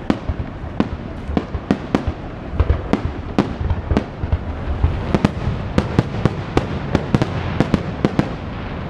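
Fireworks salute at its finale: a rapid run of sharp bangs, two or three a second and coming thicker in the second half, stopping just before the end.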